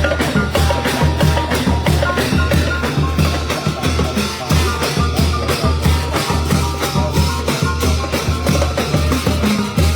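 Thai brass band (trae wong) playing lively procession music over a steady, driving drum beat.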